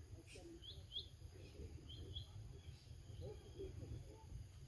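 Small birds chirping faintly: short high chirps, several in quick pairs, over a steady low outdoor rumble.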